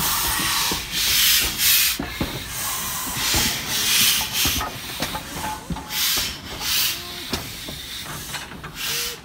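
Steam locomotive letting off repeated bursts of hissing steam, roughly one a second, unevenly spaced, with a few sharp metallic clanks between them.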